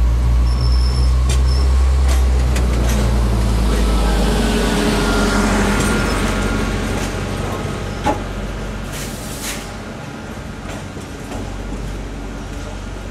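TER regional multiple unit pulling past the platform: a low rumble with wheel and rail noise, fading as the train draws away. There is a sharp knock about eight seconds in and a short hiss just after.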